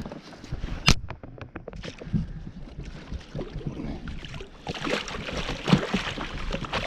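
Water sloshing around a fishing kayak with scattered knocks and clicks of handling on the hull, one sharp click about a second in; the sounds grow busier and louder in the second half.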